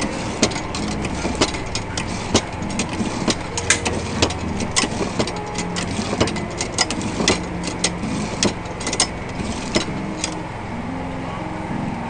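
Many irregular sharp clicks and knocks, often several a second, over a steady mechanical hum; the knocks stop about ten seconds in while the hum goes on.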